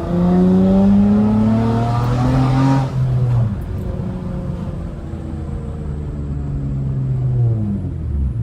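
Straight-piped V6 engine of a manual Honda Accord under acceleration, its revs climbing for about three seconds. The revs then drop sharply and the engine runs on at lower revs that sink slowly, falling again near the end.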